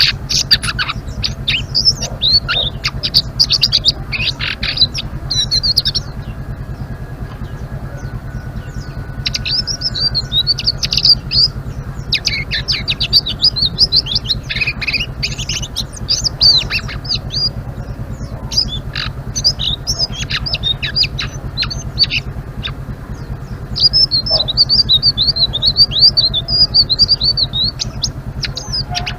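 A selendang biru songbird in full song, chattering in rapid high twittering runs (ngeriwik), several bouts broken by short pauses about six and twenty-two seconds in. A steady low hum runs underneath.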